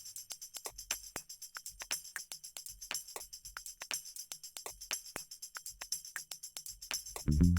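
Background music in a percussion-only passage: a fast, steady tambourine-like jingle beat with no bass or guitar.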